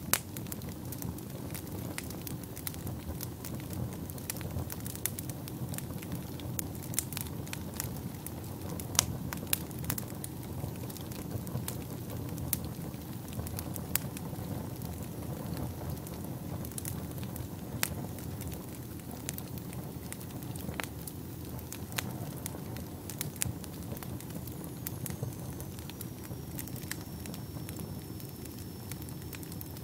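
Fire burning in a fireplace: irregular sharp crackles and pops over a steady low rumble of flames. The pops come thickest in the first half and thin out later. A faint high whine slides down and then holds near the end.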